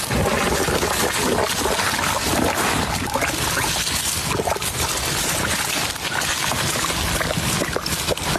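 Carbonated spring water gushing and fizzing from the ground, a steady rushing and bubbling.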